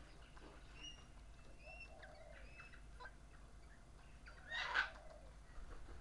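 Birds calling at a garden seed feeder: scattered faint short whistles and chirps, then a short harsh squawk about four and a half seconds in, the loudest sound.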